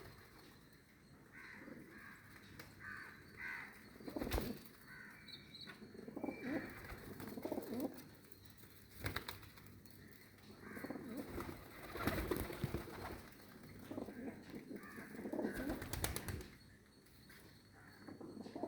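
Pigeons cooing in repeated low calls of about a second each, with several sharp knocks or wing flaps in between. Some higher, shorter calls come in the first few seconds.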